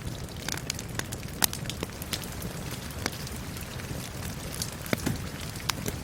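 Steady rain mixed with a crackling wood fire: a constant hiss of rain under irregular sharp snaps and pops, a few louder pops standing out about one and a half seconds in and near the end.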